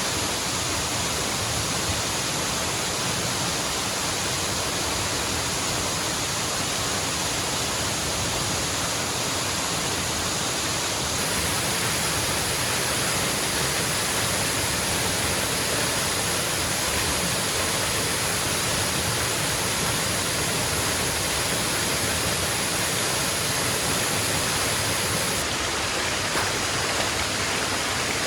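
Waterfall: a steady, even rush of falling water with no let-up, its hiss growing a little brighter about eleven seconds in.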